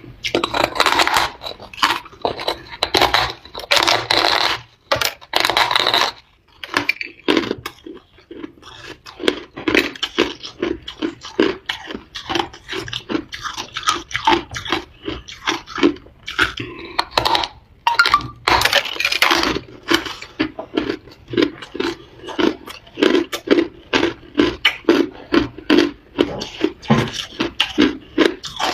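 Ice being bitten and crunched between teeth. The first few seconds have several loud bites, then comes a long steady run of rhythmic chewing crunches, with another loud bite near the middle.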